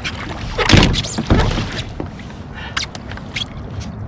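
Two heavy thumps against a fishing kayak about a second in, followed by a few sharp, short knocks and clicks, as a large lake trout is wrestled toward the net at the boat's side.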